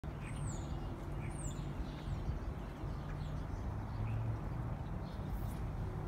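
Small birds chirping: two short, high, falling chirps in the first second and a half, then fainter scattered chirps. A steady low rumble runs underneath.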